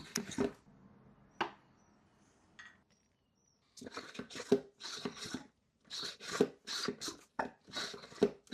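Hand pump sprayer being pumped in quick regular strokes, about two a second, starting about four seconds in after a few light clicks, to push transmission fluid into the ZF automatic gearbox.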